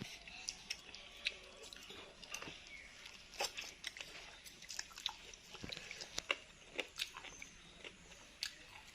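Close-up chewing and mouth sounds of a person eating bakso, Indonesian meatball soup: irregular wet smacks and clicks, several a second.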